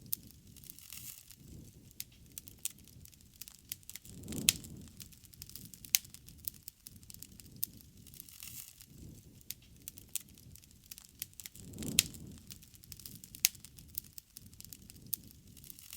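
Wood bonfire crackling, with sharp, irregular pops over a low rush of flame. The rush swells twice, about four seconds in and again about twelve seconds in.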